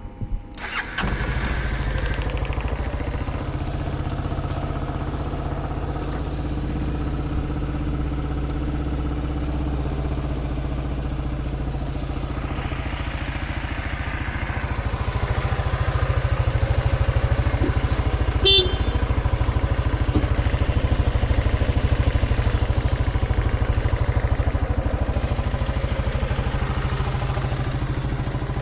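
Yamaha Maxam 250 scooter's single-cylinder four-stroke engine starting after a moment of clicking and then idling steadily. It runs a little louder from about halfway through. A single sharp click comes about two-thirds of the way in.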